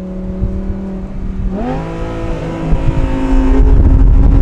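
Audi R8's naturally aspirated V10 with a straight-pipe titanium exhaust, heard from inside the cabin while driving. It holds a steady note, its revs jump sharply about a second and a half in, and through the last second it gets much louder and climbs in pitch under hard acceleration.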